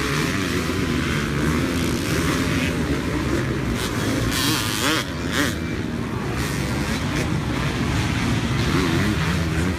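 Several dirt bike engines running and revving together, their pitches wavering up and down.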